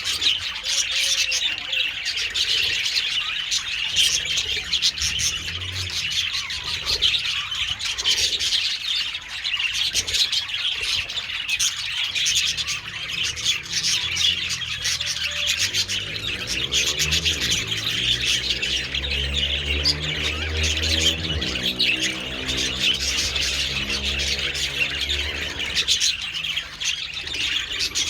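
A colony of budgerigars chattering continuously, a dense mix of chirps, warbles and squawks. In the second half a low engine drone swells and fades for about ten seconds beneath the birds.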